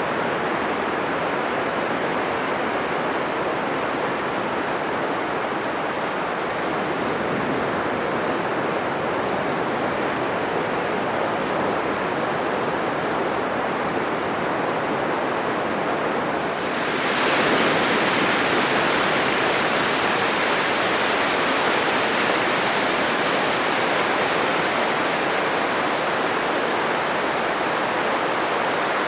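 Atlantic Ocean surf breaking on a sandy beach: a steady, dense rush of wave noise. About two-thirds of the way through it turns louder and brighter and stays so.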